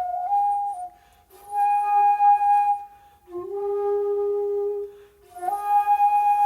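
Solo shakuhachi, the Japanese end-blown bamboo flute, playing long held notes parted by brief breath pauses. A lower note is held through the middle, and the notes start with an audible breathy attack.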